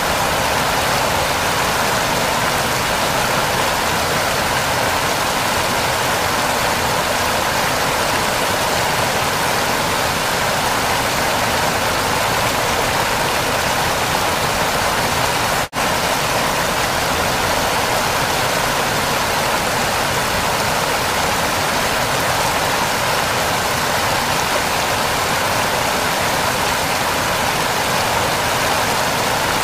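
A waterfall rushing steadily, with a dense even roar of falling water and a momentary break in the sound about halfway through.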